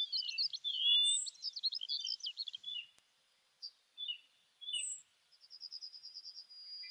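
Several birds calling and singing: a dense run of quick chirps and whistles for the first few seconds, then scattered single calls, and a fast, even trill near the end.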